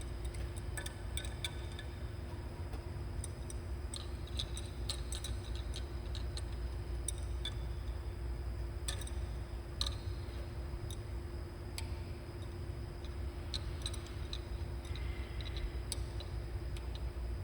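Scattered light clicks and ticks at irregular intervals from valve parts and tools being handled, over a steady low hum.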